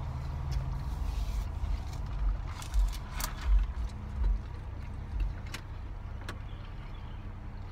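Car engine idling, heard from inside the cabin as a steady low hum, with irregular low thumps in the first few seconds and a few sharp clicks.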